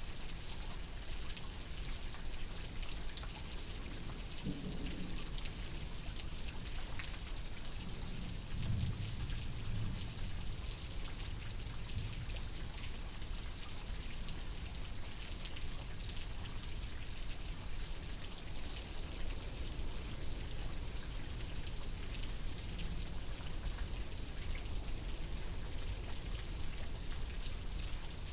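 Steady rain pattering, with soft low rumbles of thunder about four seconds in and again from about eight to twelve seconds.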